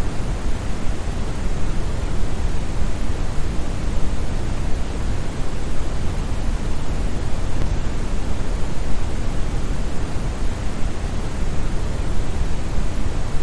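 Brown noise: a steady, deep hiss heaviest in the bass and thinning toward the treble, with no change or events.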